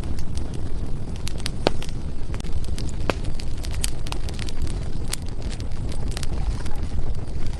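Firewood burning in a fireplace: a steady low rumble of the flames with frequent sharp, irregular crackles and pops from the wood.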